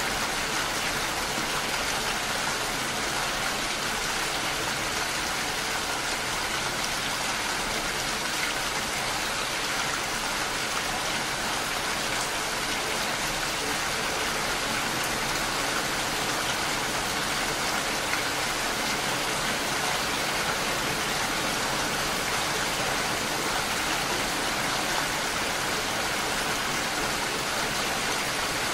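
Steady rain falling, an even hiss that holds at the same level without let-up.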